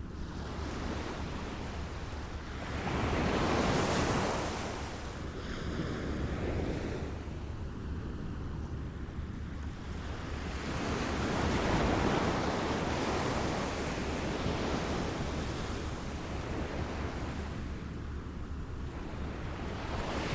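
Small waves lapping and washing in, with a louder surge about four seconds in and a longer swell in the middle, over a steady low rumble.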